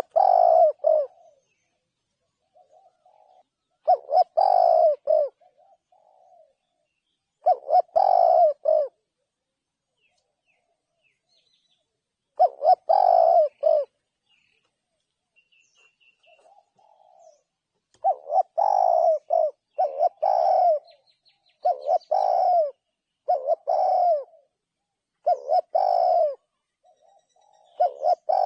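Spotted dove cooing: a series of short, repeated coo phrases, each about a second long. They come every few seconds at first and then closer together, about every two seconds, in the second half. Fainter, softer calls sit in the gaps.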